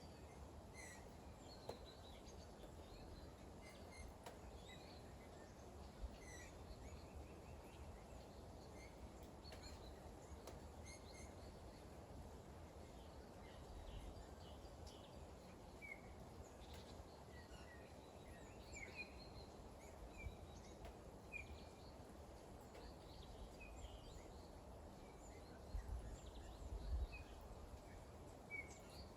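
Quiet outdoor ambience of light rain, a low steady hiss, with many faint scattered bird chirps. A couple of low thumps near the end are the loudest moments.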